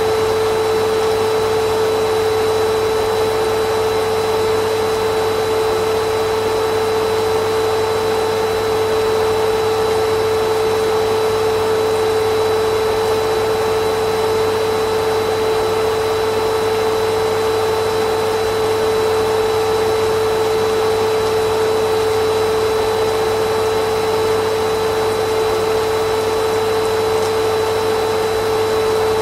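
Vacuum cleaner motor running steadily, a constant whine with a strong steady hum and a rush of air, unchanging throughout.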